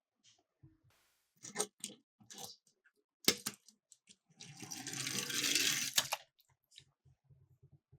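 Miniature toy cars clattering on a plastic slope: several sharp clicks and knocks, then a rattling roll lasting about a second and a half, followed by a few light ticks.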